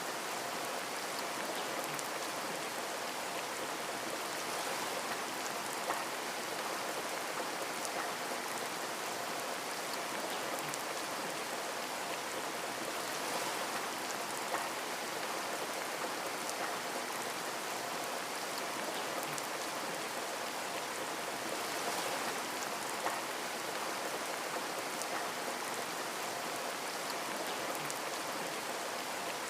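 Steady rain falling and pattering on a window, with scattered individual drops ticking against the glass.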